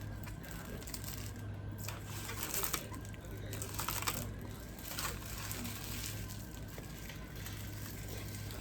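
Eating and food-handling noises: a few short crinkles and clicks, loudest about three to four seconds in, over a steady low electrical hum.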